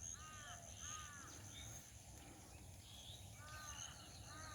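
Faint bird calls: short arched notes repeated in two runs, one at the start and another from about three and a half seconds in, with a few fainter higher chirps between.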